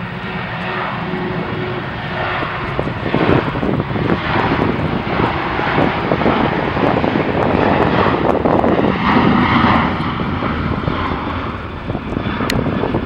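Jet airliner engines, a loud rushing noise that builds about three seconds in and stays loud as the aircraft passes close by.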